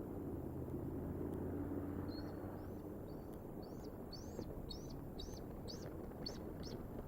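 A bird calling a series of short, high chirps, about two a second, starting a couple of seconds in, over a steady low rumble of outdoor background noise.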